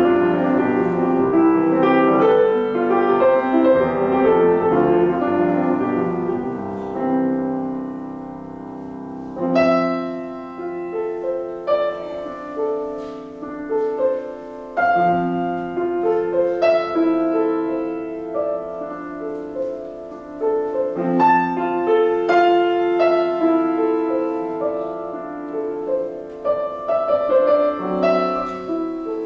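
Solo piano playing classical music: a busy, flowing passage, then from about ten seconds in slower, more widely spaced notes and chords.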